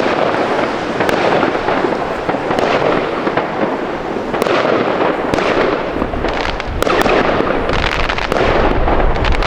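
Many fireworks and firecrackers going off at once: a continuous dense crackle with frequent sharp bangs.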